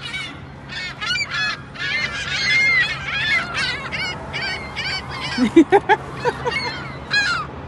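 A flock of seagulls calling loudly over one another, with many short squawking calls in quick succession. About five and a half seconds in, a run of lower, rising calls is the loudest part.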